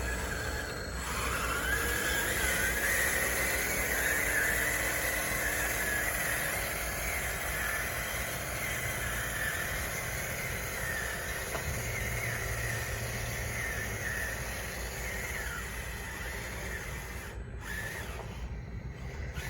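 Radio-controlled bulldozer's motors and gears whining as it runs, the pitch wavering with load. A lower whine climbs in pitch about a second in, and the sound fades near the end.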